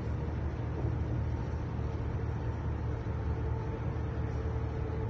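Passenger train running, heard from inside the carriage: a steady low rumble with a faint, steady whine over it.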